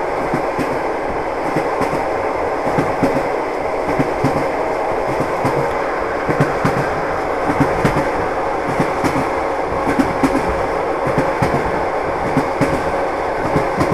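Moving train: a steady rolling rumble with the wheels knocking repeatedly over the rail joints.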